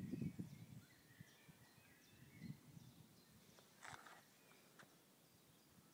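Near silence outdoors, with faint scattered chirps of distant birds. A low rumble dies away within the first second, and a single sharp click comes about four seconds in.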